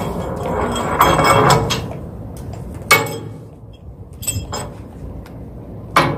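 Several sharp knocks and clinks, hard objects striking, the loudest about three seconds in and again near the end, over a steady low rumble.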